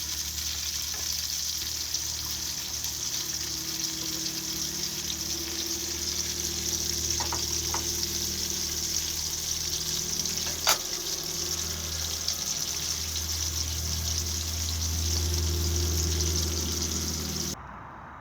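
Food frying in a pan, a steady sizzle, with one sharp click about ten and a half seconds in. The sizzle cuts off suddenly near the end.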